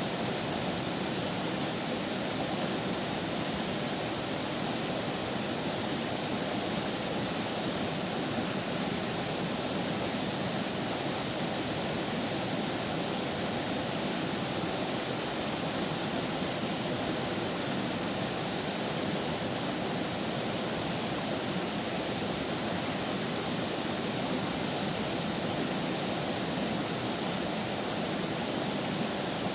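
River water flowing, a steady, even rushing with no pauses or changes.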